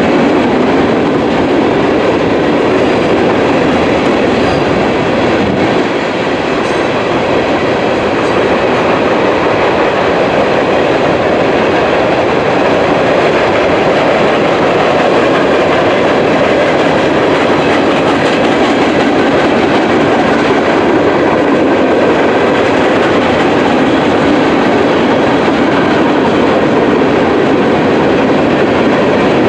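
Freight cars of a mixed freight train rolling past at speed: a loud, steady rumble of wheels on rail with some clickety-clack.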